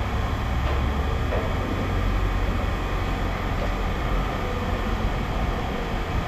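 A heavy engine running steadily, a low rumble with a broad mechanical noise over it.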